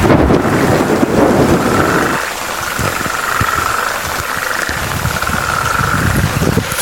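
Chorus of frogs calling by a river: a high trill that swells and fades every second or two, over a dense low rattling.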